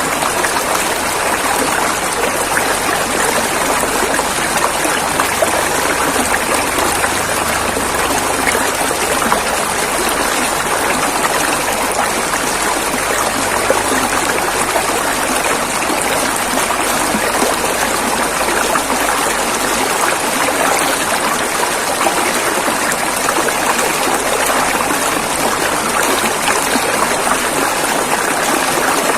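River water flowing over rocks: a steady, dense rushing with fine splashing and no breaks.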